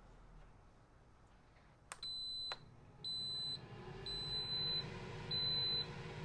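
Instant Pot air fryer lid beeping as its air-fry program starts: four high electronic beeps about a second apart after a single click, with the lid's fan starting up as a low hum that rises about four seconds in.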